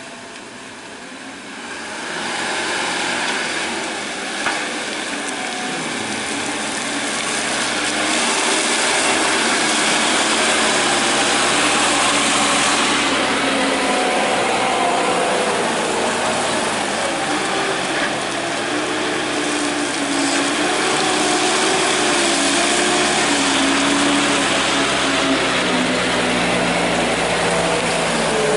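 Truck's diesel engine running hard under load, growing louder over the first several seconds, its pitch rising and falling as the throttle is worked.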